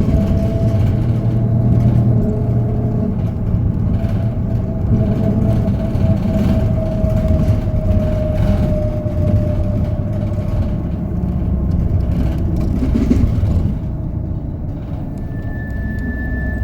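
Hino Poncho minibus running on the road, heard from inside the cabin: a steady low rumble of the diesel engine and drivetrain, with a whine that falls slowly in pitch midway through as the bus eases off. About two seconds before the end the sound drops in level and a steady high tone sets in.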